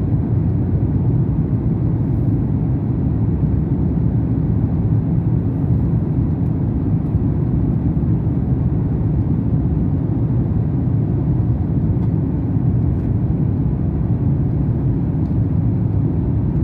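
Jet airliner cabin noise during take-off: a steady, deep engine and airflow rumble that holds level throughout.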